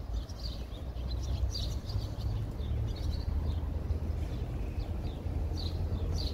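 Small birds chirping in short, irregular calls over a steady low rumble.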